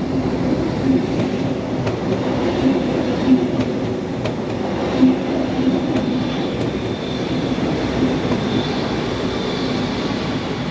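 Train running along a station platform: a steady rumble with a low hum, and a few sharp clacks as the wheels cross rail joints. A faint high wheel squeal comes in over the last few seconds.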